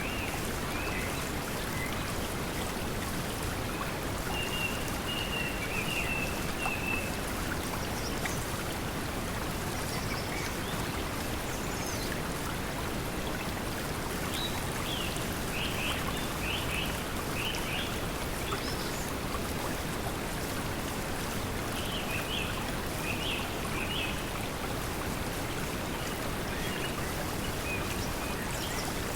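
Steady pink noise blended with flowing water, an even hiss across all pitches. Short high chirps from the forest sounds come through now and then, in groups of several a few seconds apart.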